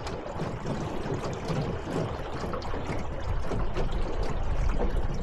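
Water trickling and gurgling against a small boat moving slowly through a lake, with a low rumble that grows in the second half.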